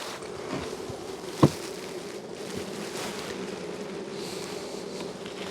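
Steady buzzing of a honey bee colony swarming over an opened hive, a large colony stirred up by its boxes being taken apart and restacked. A single sharp knock comes about a second and a half in.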